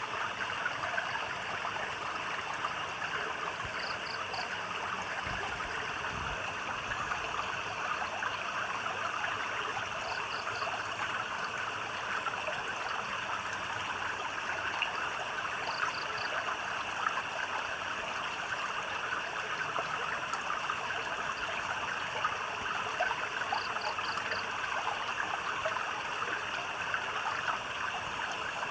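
A small stream trickling and babbling steadily, under a constant high drone of night insects. A short call of three quick notes repeats about every six seconds.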